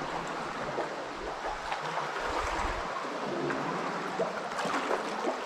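Water trickling and running in steadily, with a few faint small clicks.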